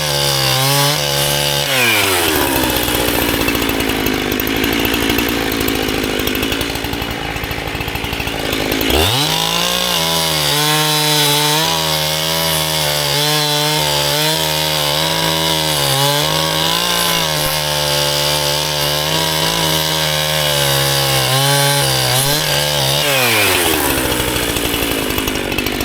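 Chainsaw cutting firewood: it runs at high throttle, drops back to idle about two seconds in, revs up again about nine seconds in and holds high revs for roughly fourteen seconds, its pitch wavering as the chain works through the wood, then falls back to idle near the end.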